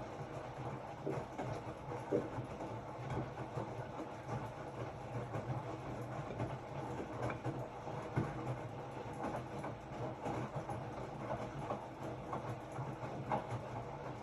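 Hotpoint-Ariston RSG 825 J washing machine running, its drum turning with a steady low motor hum and irregular soft knocks and clunks from the load tumbling.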